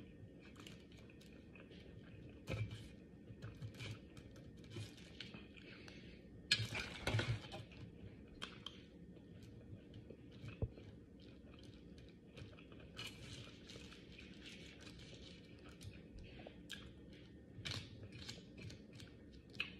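A person eating close to the microphone: faint chewing with many small wet mouth clicks and crunches, and a brief louder noise about six and a half seconds in.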